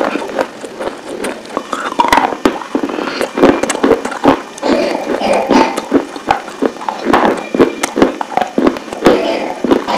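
Close-miked chewing of hard, crunchy three-colour layered cubes: many quick, irregular crunches and crackles.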